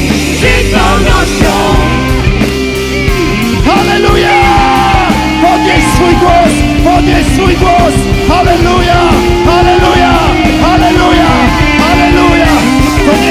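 Worship band playing a loud rock song, with steady drums and bass under sustained chords. A melody line comes in over them about a second and a half in.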